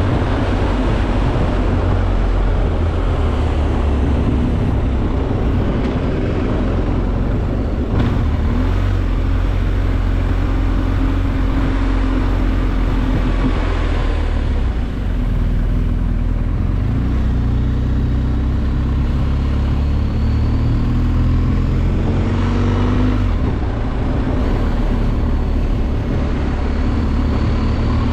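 BMW R 1250 GS Adventure's boxer twin engine running under way, heard from on board the motorcycle. Under a steady low rumble, the engine note rises and falls several times as the rider works the throttle and gears on the climb.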